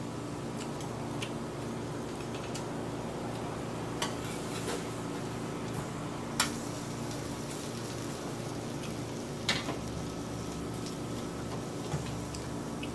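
Egg-battered cabbage and onion sizzling on a hot tabletop grill pan over a steady low hum, with a handful of sharp clicks as utensils and chopsticks knock against the pan. The loudest click comes about six and a half seconds in.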